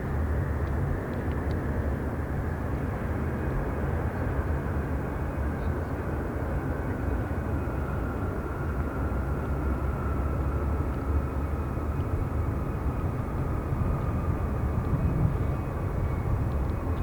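Jet airliner departing at takeoff power: a steady engine roar with a whine that slides slowly lower as it goes by.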